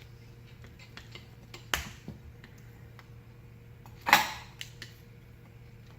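Small metal clicks and clinks of hand tools working at a pin on a ring fan's motor, with two sharper metallic clanks, the louder one about four seconds in.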